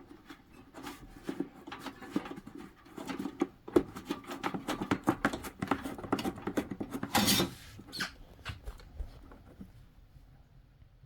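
Diesel heater parts being handled during disassembly: a fast, irregular run of small clicks and knocks, with a louder scrape about seven seconds in, then it quietens.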